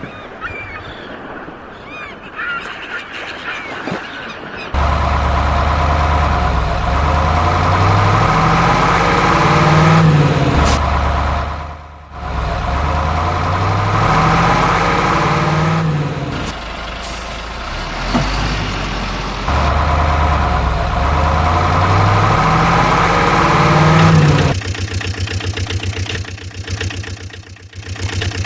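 Heavy vehicle engine sounds, likely added sound effects: the engine revs up in steps, and the same cycle repeats about three times. It settles into an even, pulsing idle near the end. The start is quieter, with faint high chirps.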